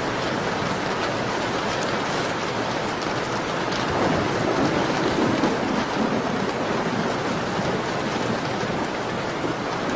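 Steady rain on a window, swelling louder for a couple of seconds about four seconds in, with a few faint crackles from a fireplace fire.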